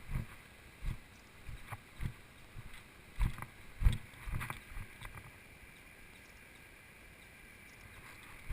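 Irregular low thumps of footsteps and camera handling while climbing a dirt trail, over a faint steady hiss; the thumps thin out about halfway through.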